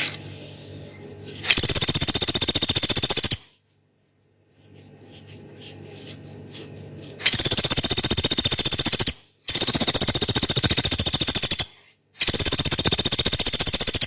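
Pelatuk beras, a small woodpecker, giving four long, harsh machine-gun-like rattling calls of about two seconds each, with softer ticking between them.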